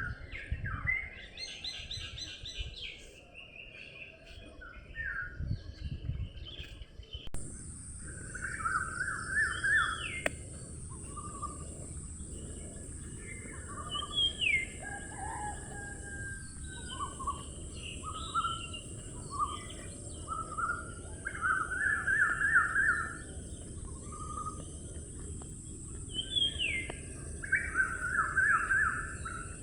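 Birds singing and calling with short repeated phrases: fast trills and notes that slur downward. About seven seconds in, the ambience changes abruptly and a steady high hiss joins the birdsong.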